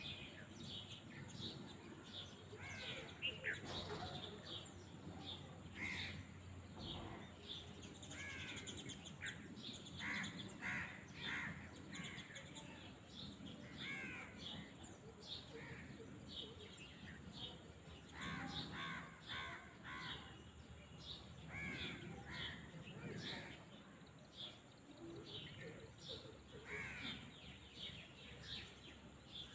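Birds calling outdoors, many short arching calls following one another throughout, often several a second, over a faint low background.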